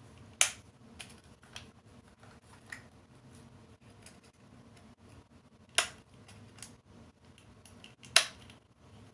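Hard plastic parts of a Titan Tech Kong action figure being handled and fitted together: three sharp clicks, one just after the start, one near six seconds and one near eight seconds, with lighter ticks in between.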